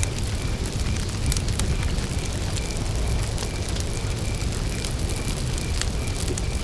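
Campfire burning with a steady low rush and scattered sharp crackles of wood, while a cricket chirps in an even rhythm, about two to three chirps a second.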